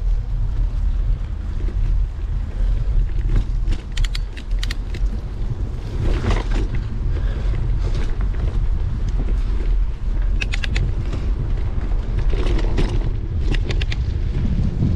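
Wind buffeting the microphone on a moving bicycle makes a steady low rumble. Short runs of quick clicks from the bike come three times, about four seconds in, around ten seconds and near the end.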